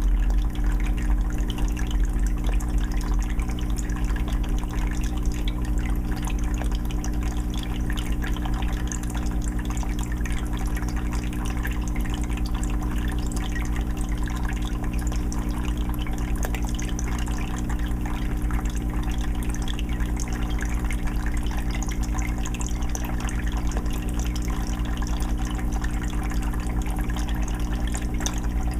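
Aquarium filter running: water trickling and splashing steadily into the tank over a steady low hum.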